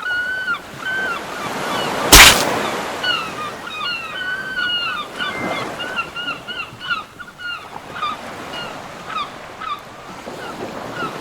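Seagulls calling in many short, rapid cries over a steady wash of sea surf. A single loud, brief thump comes about two seconds in.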